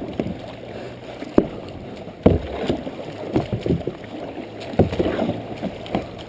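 Kayak paddling: paddle blades splashing and knocking at irregular intervals over a steady low rush of water.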